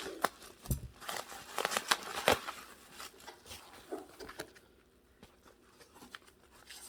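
Packing paper rustling and crinkling with small knocks and taps as an item is unwrapped from a box, busiest in the first three seconds and quieter after.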